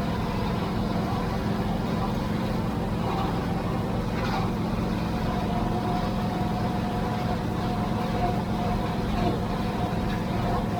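Farm tractor engine running steadily under way, a constant low drone with no changes in speed.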